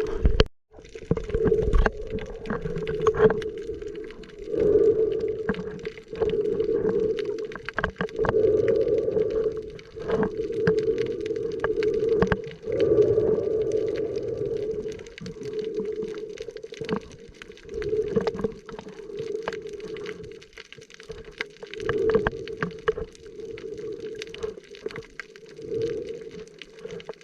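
Underwater sound from a camera held while snorkelling: a muffled water rush that swells and fades every second or two, with many small sharp clicks and crackles throughout.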